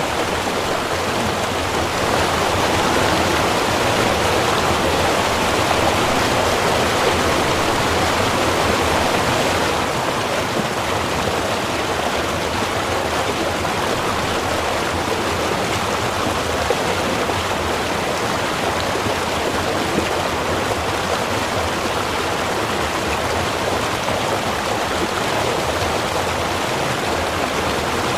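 Small river running water, a steady, even flowing sound, a little louder for the first ten seconds or so.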